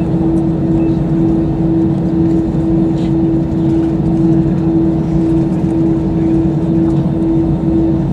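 Steady drone inside the cabin of an Airbus A320-214: a constant hum with a steady mid-pitched tone over a low rumble.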